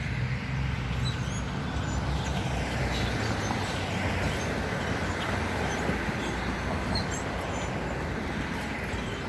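Steady outdoor rumble and hiss, with scattered faint, brief bird chirps high above it.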